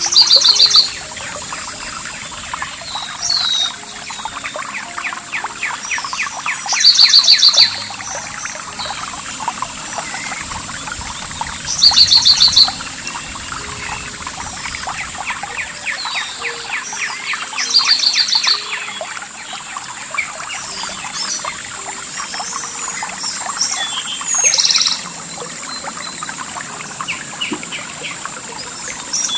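Songbird repeating a short, loud trilled phrase about every five seconds, with other birds chirping softly, over continuous trickling water. A thin, steady high-pitched tone runs underneath.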